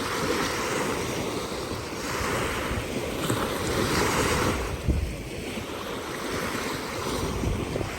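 Lake water washing in small waves, swelling and easing every second or two, with wind buffeting the microphone in low gusts.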